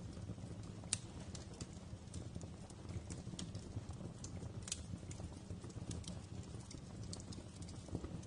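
Wood fire crackling in a fireplace: irregular sharp pops and snaps over a low steady rumble, with the loudest pop about a second in.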